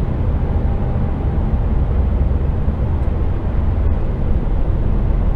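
HGV container truck's diesel engine and tyre noise heard inside the cab, a steady low rumble with no change, as the lorry cruises through a motorway tunnel.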